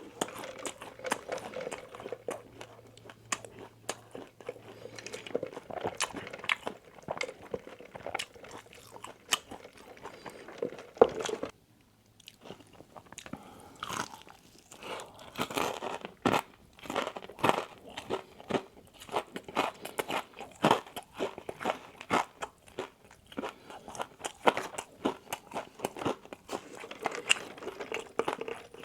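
Close-miked eating: crunchy Wingstop fried food being bitten and chewed, with many irregular crunches and wet mouth clicks. There is a brief pause a little before halfway.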